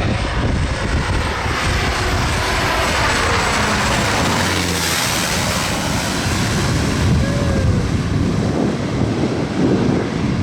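Propeller aircraft passing close by, its engine and propeller roar loudest about halfway through.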